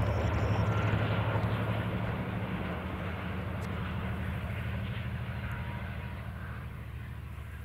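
Diesel-hauled Talgo passenger train running away from the listener: a steady low engine drone that slowly fades as the train recedes.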